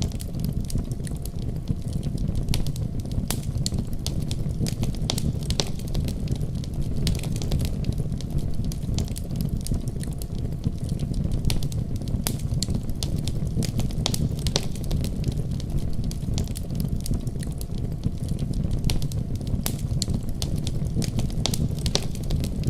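Wood fire crackling with frequent sharp, irregular pops over the steady low rumble of a snowstorm's wind.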